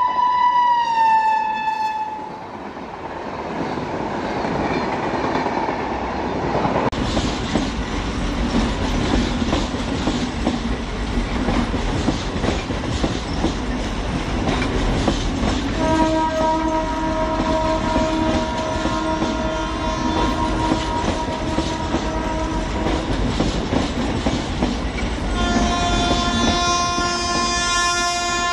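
Indian Railways WAP-5 electric locomotive hauling an express train, its horn sounding as it passes with the pitch dropping about a second in. Then comes steady running noise of the train on the rails, a long horn blast of about seven seconds, and another horn blast starting near the end.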